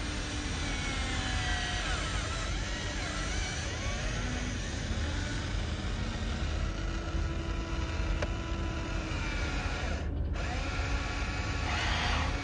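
Small electric motors of radio-controlled construction models whirring, their whine rising and falling in pitch as the controls are worked, with a brief break about ten seconds in.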